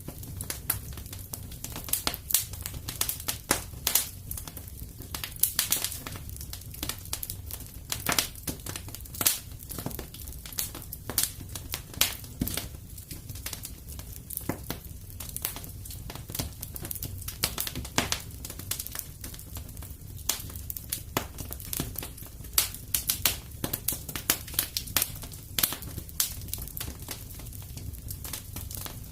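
Fireplace wood fire crackling, with irregular sharp pops and snaps over a low steady rumble.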